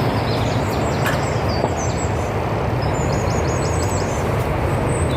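Magic Mobility Extreme X8 electric power chair driving along a stony path: a steady run of motor and tyre noise. A small bird chirps rapidly several times about three seconds in.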